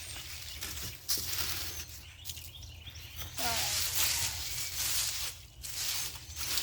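Garden hoe scraping and mixing through loose, fluffy bed soil in repeated strokes.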